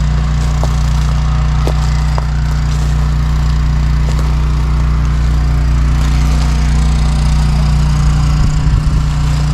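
A steady low engine hum runs throughout, with a few faint clicks in the first few seconds.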